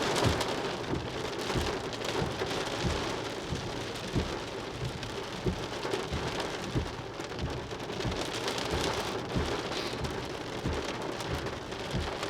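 Small hail mixed with heavy raindrops pelting down: a dense, steady patter with many sharp individual taps and knocks throughout.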